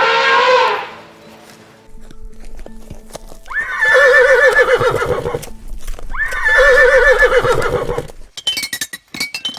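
A horse whinnying twice, each neigh jumping sharply to a high note and then quavering down. A falling call fades out at the start, and a run of sharp clicks follows near the end.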